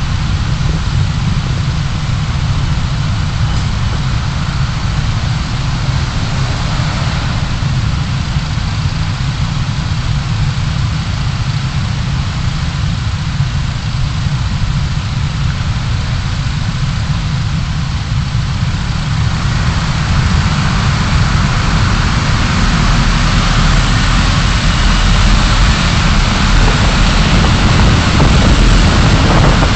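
Car engine and tyre road noise picked up by a dashcam inside a moving car: a steady low rumble with a hiss above it, growing louder in the last third as the car speeds up.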